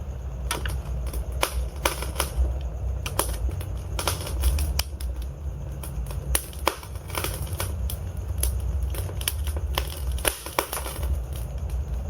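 Wood fire burning in a fireplace: logs crackling with irregular sharp snaps over a steady low rumble of the flames.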